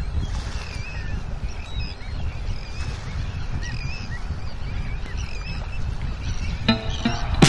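Birds calling again and again, short wavering calls, over a low steady rumble of outdoor ambience. Music comes in near the end with a few plucked, pitched notes.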